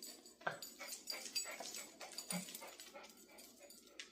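Dogs making small sounds: a run of faint, short clicks and rustles, with a brief whimper about two and a half seconds in.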